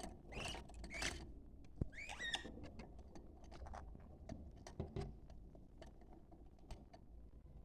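Budgerigars chattering: a few short chirps in the first couple of seconds, then soft scattered clicks and ticks.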